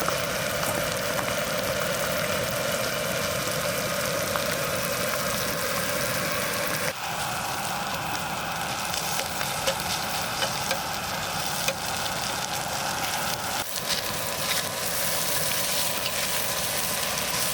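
Food frying in oil in a pan, a steady sizzle whose tone shifts abruptly twice, about seven and fourteen seconds in.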